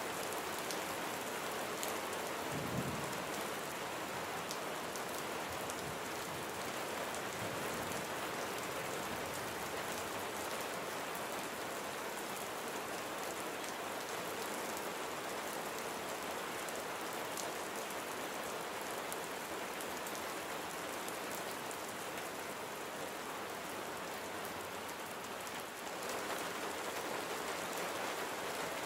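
Steady rain falling and pattering on surfaces, with a brief low thump about three seconds in. Near the end the rain dips briefly, then grows a little fuller.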